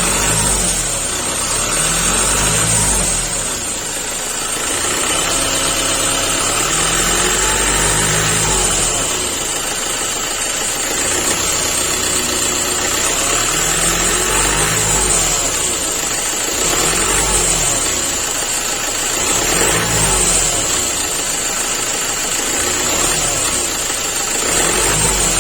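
Ford Ranger T6 engine idling and revved up and back down several times, its pitch rising and falling with each rev, as is done when checking the engine mounts for movement.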